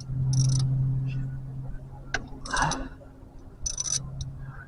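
A small motor hums steadily, stops about two and a half seconds in, then runs again briefly near the end, with short hissing sounds and a single click on top.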